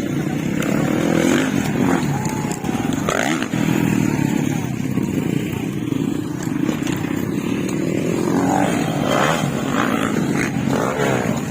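Motocross dirt bike engines running steadily, with a few voices faintly in the background.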